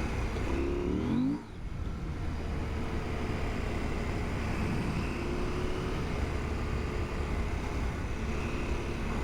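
KTM 890 Adventure R parallel-twin engine revving up for about a second, with a sudden short drop in level at about a second and a half as the throttle closes. It then runs steadily under way.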